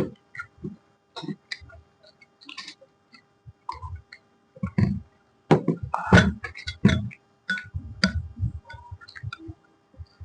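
Close-miked eating sounds: irregular wet clicks, smacks and soft thumps of chewing puri and aloo sabzi, over a faint steady hum.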